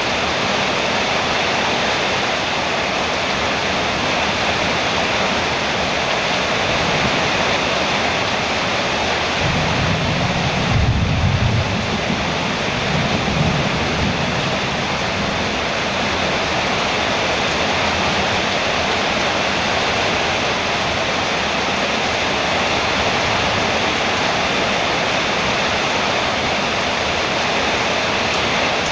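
Heavy rain falling on a metal roof, a steady, even hiss. About ten seconds in a low rumble swells for a few seconds and fades.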